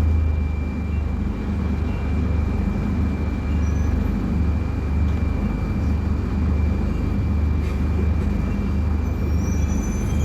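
Scania K250UB bus's five-cylinder diesel engine running steadily with a deep hum, and a thin high whine alongside it.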